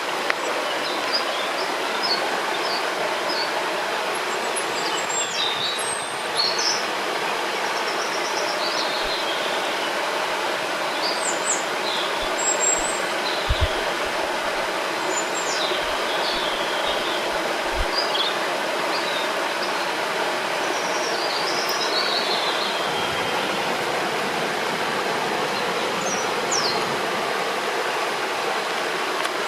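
Steady rush of flowing river water, with small birds chirping and singing over it throughout. A few soft low thumps come near the middle.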